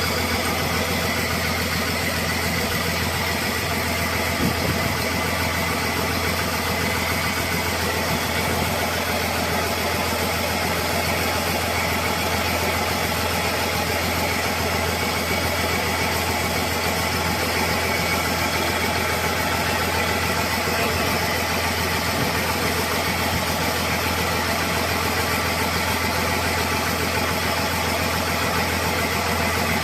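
Cummins QSB 6.7 inline-six diesel engine running steadily on a test run after its rebuild.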